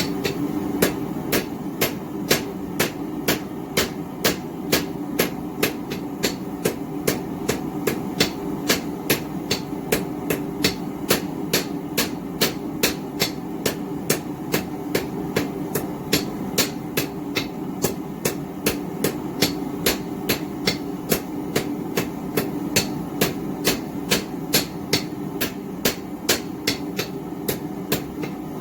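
Steady forging blows from a roughly 2-pound cross-peen hammer striking hot steel on an anvil, about two strikes a second, drawing out and flattening round stock, over a steady rushing noise.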